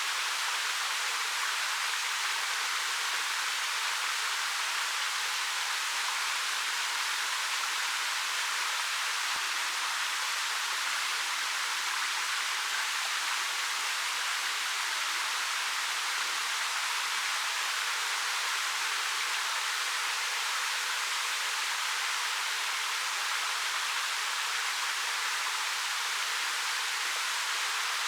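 A 13 m waterfall flowing down black rock, making a steady, even rush of water with little low rumble.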